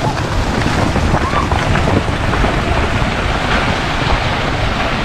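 Wind buffeting the microphone, a steady loud rushing noise with heavy low rumble.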